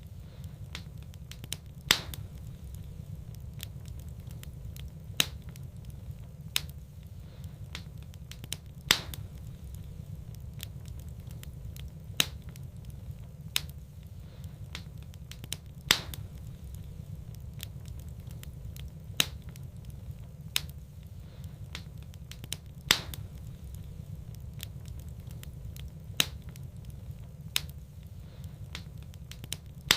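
Fire burning in a fireplace, with sharp crackles and pops every second or few over a steady low rumble.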